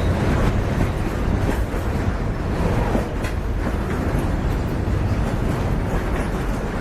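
Loaded freight train rolling past, its wagons running over the rails in a steady heavy rumble with scattered clicks.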